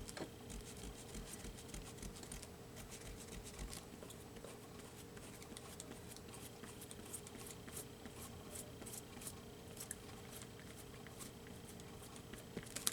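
Faint scratching and quick small clicks of hands rubbing and pressing glued paper down onto a journal page, over a steady faint hum.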